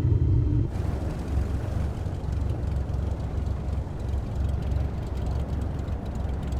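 Cessna 172's piston engine and propeller running steadily at low taxi power, a steady low rumble while the aircraft rolls and turns on the ground.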